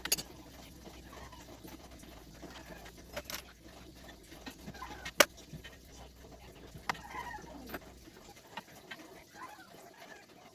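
Scattered sharp clicks and knocks of parts and tools being handled during an automatic transmission teardown, the loudest about five seconds in. Faint clucking of chickens lies underneath, and a low hum stops near the end.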